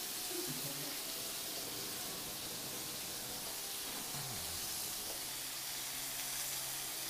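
Squid and prawns sizzling in a hot frying pan over a gas flame: a steady, even hiss.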